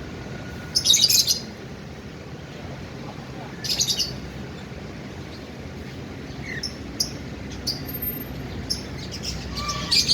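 Cockatiel chirping: short bursts of high chirps about a second in, just before four seconds and again near the end, with small scattered calls between.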